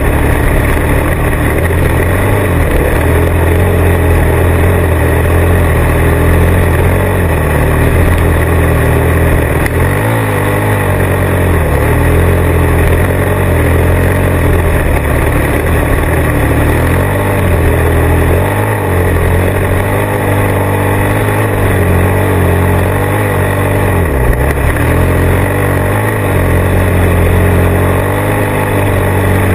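Motorcycle engine running under way, loud and steady, with its note dipping briefly a few times as the throttle eases or the gears change. A steady rushing noise lies over it.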